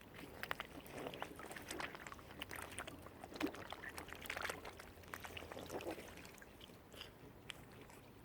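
Mute swans and cygnets on the water, with irregular small splashes and wet dabbling clicks and a few brief soft calls.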